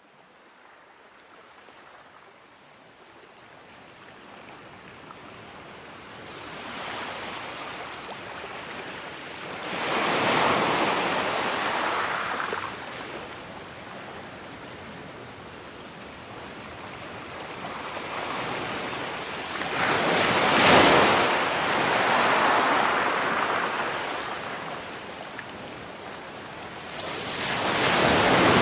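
Ocean surf: three waves rush in and wash back, about ten seconds apart. The sound fades in from near silence at the start.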